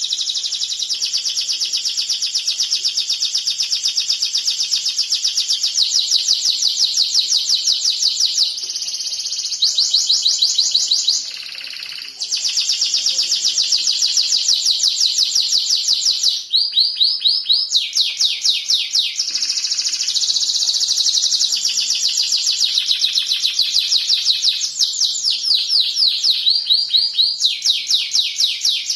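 Domestic canary singing a long, unbroken song of fast, high trills that switch in speed and pitch every few seconds, with a short lull about eleven seconds in.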